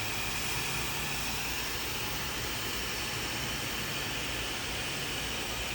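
Hand-held hair dryer running steadily during a blow-dry: an even rush of air with a faint low motor hum underneath.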